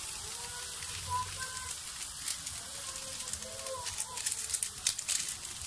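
Bitter gourd and kikiam sizzling in a wok: a steady frying hiss, with a few sharper crackles near the end.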